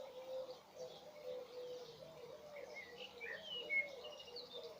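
Birds calling: a low call repeated two or three times a second, joined by a few higher chirps about halfway through.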